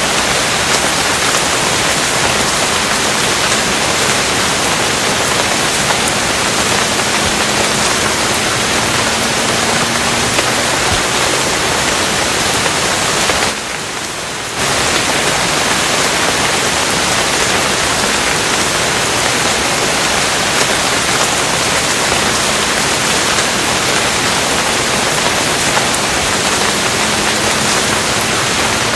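Steady, dense rain falling, an even hiss. It drops in level for about a second just before halfway, then carries on as before.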